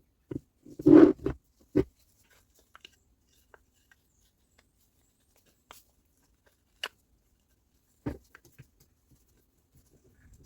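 Short bursts of knocking and clattering about a second in, then a few single sharp clicks further apart: small parts of a reciprocating saw being handled on a workbench.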